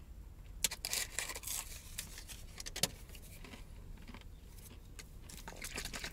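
Close-up eating sounds: a crisp hash brown being chewed, with crackling rustles of its paper sleeve. Crisp crackles come about a second in, there is a single sharp click near three seconds, and more crackling follows near the end.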